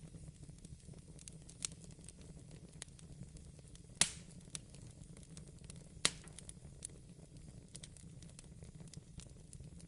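Wood fire crackling in a fireplace, with scattered small ticks over a low steady rumble and two loud pops, about four and six seconds in.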